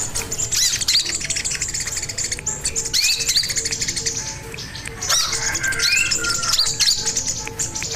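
Sogon bird singing a fast, loud run of high chirps, trills and sweeping notes with hardly a pause: the energetic 'gacor' song that keepers use to lure and tutor other sogon birds.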